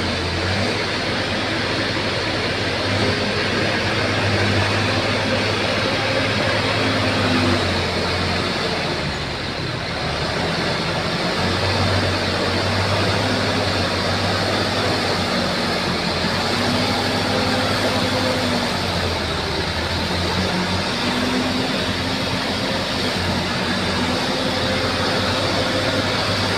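Bulldozer's diesel engine running and working, its pitch rising and falling as the load changes, with a slight dip about a third of the way in.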